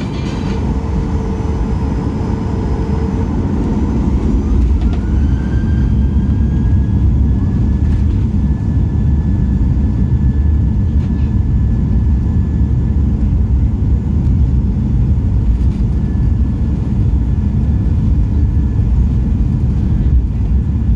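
Boeing 737 jet engines heard from inside the cabin, spooling up with a whine that rises and then holds steady over a loud, deep rumble, as on the take-off roll.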